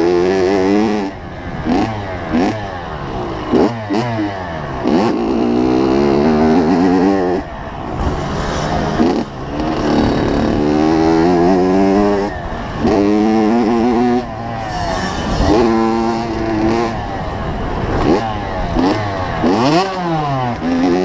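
85cc two-stroke motocross bike engine being ridden hard, its pitch climbing and dropping over and over as the throttle is opened and shut and it runs up through the revs.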